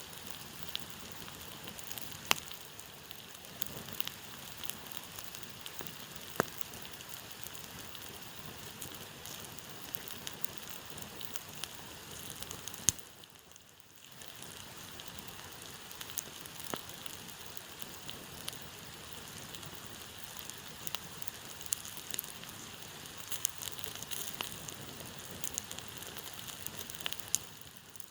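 Wood campfire burning: a steady hiss with scattered sharp crackles and pops, dipping briefly about halfway through.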